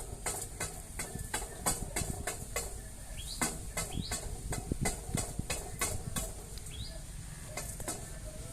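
Rainwater dripping in irregular drops, two or three a second, each a sharp tap. A few drops give short rising notes.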